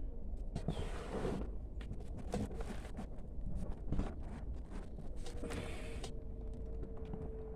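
Rustling and crackling of hands digging through soil and pulling potato plants and roots, in irregular short bursts. A faint steady hum joins about five seconds in.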